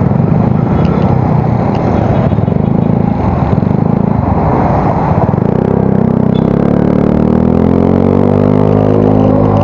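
Yamaha Mio Soul GT scooter's single-cylinder four-stroke engine running through an aftermarket exhaust while riding. About halfway through it accelerates, its note rising steadily before levelling off near the end.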